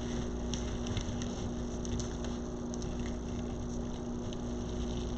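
Steady low hum of room tone with a few faint, soft crinkles, as deco mesh and ribbon are handled and worked into poofs on a wreath frame.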